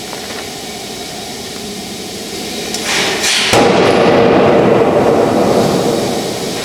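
Power hammer press running with a steady hiss, a short rush of air just before halfway, then a sudden loud, drawn-out noisy blow as it comes down on a metal-spring chest expander, dying away over about two seconds.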